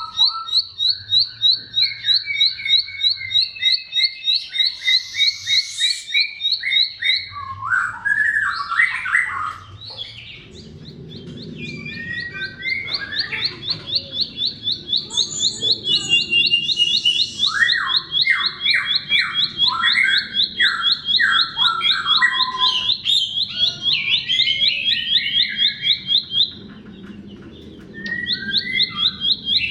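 Bar-winged prinia (ciblek) singing: a fast run of repeated high chirps interleaved with varied lower warbled phrases. The high chirping drops out about a third of the way in and again near the end, then resumes.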